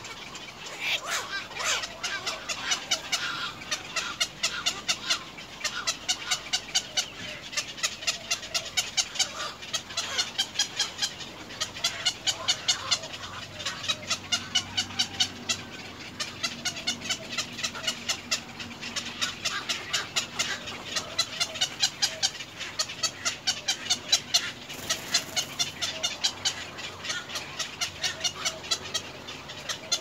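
Birds calling in repeated runs of short, rapid notes, several notes a second, with brief pauses between runs.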